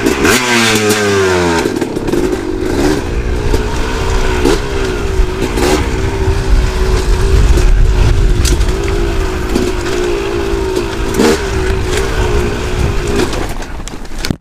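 Two-stroke KTM dirt bike engine running on the trail, its revs falling sharply in the first two seconds and then holding fairly steady under throttle. Sharp knocks and scrapes from the bike hitting rocks come throughout.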